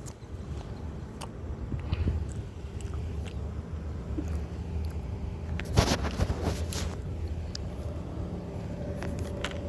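A steady low rumble, with a short burst of crackling rustles about six seconds in.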